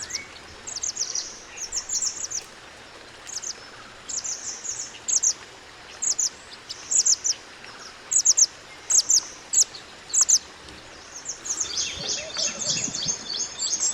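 Mantenan gunung songbird singing: short phrases of high, sharp chirps about once a second over a steady hiss, turning into a denser, continuous twittering near the end.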